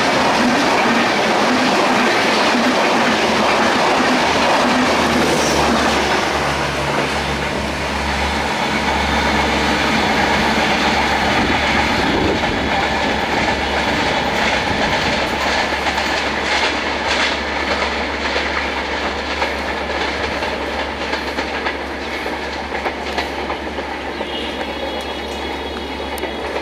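Silk City Express passenger train running past at speed, with a loud steady rush of wheels on rail. In the second half the noise eases a little and a clickety-clack of wheels over the rail joints comes through.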